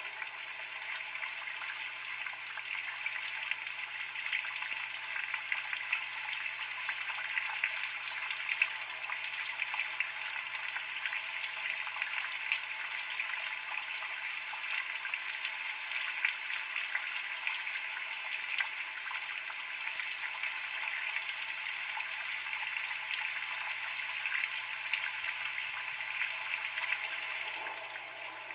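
Rain falling: a steady hiss of many small drop ticks.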